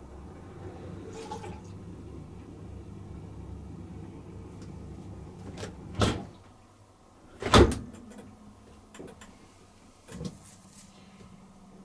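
Bosch dishwasher running a service-mode test program: a steady low motor hum for about six seconds that then dies away, followed by two loud knocks about a second and a half apart and a softer knock near the end.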